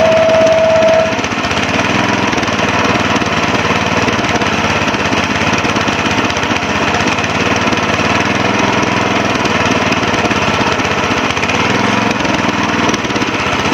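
Rotovator's small gasoline engine running steadily, back in working order after its dirty carburetor and fuel tank were cleaned and its cracked fuel line hose replaced. A brief steady tone sounds over it and stops about a second in.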